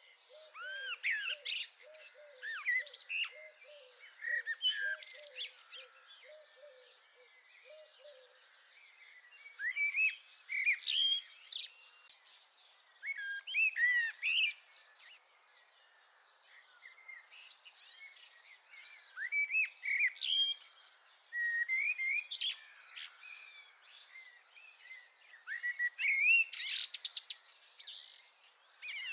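Several small garden birds chirping and singing over one another, in short clusters of quick whistled and trilled calls. A soft low note repeats about twice a second for the first eight seconds or so.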